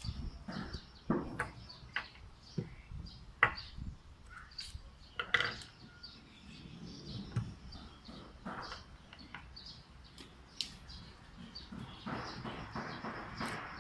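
Irregular clicks and knocks of small parts and tools as an airsoft rifle is taken apart by hand, with birds chirping in the background.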